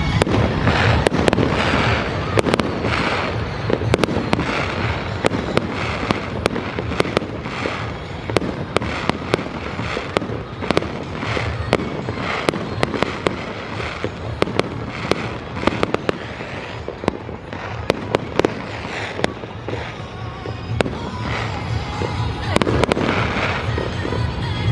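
Fireworks going off in a rapid, continuous barrage: many sharp cracks and bangs, with louder clusters of bursts near the start and again near the end.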